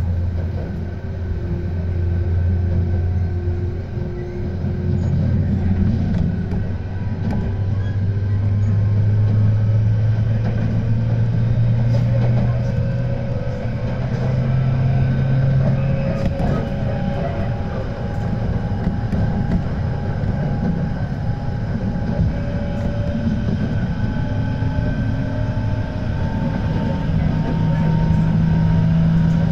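Tobu 10030 series electric train running, heard from inside the car: a low rumble of wheels on rail, with motor and gear whine slowly rising in pitch as the train gathers speed.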